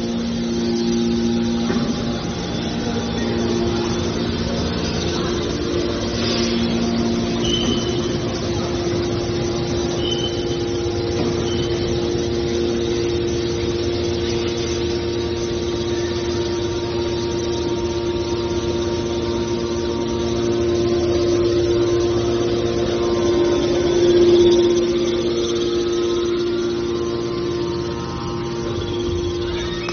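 Hydraulic power unit of a steel drum baler running with a steady hum, swelling briefly in loudness about 24 seconds in.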